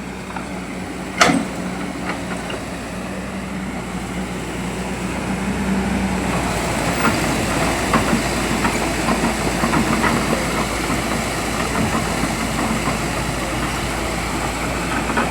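Hydraulic excavator's diesel engine running steadily, getting louder after about five seconds. There is a sharp knock about a second in, and scattered metallic clanks later on.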